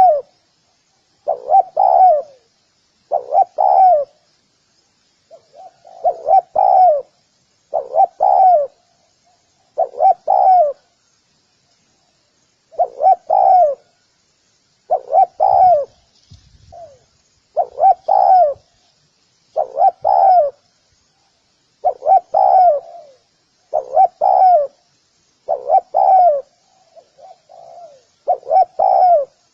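Spotted dove cooing repeatedly, a short low phrase about every two seconds with a couple of brief pauses.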